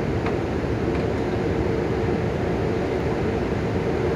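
A standing Taiwan Railways locomotive running with a steady drone over a low rumble.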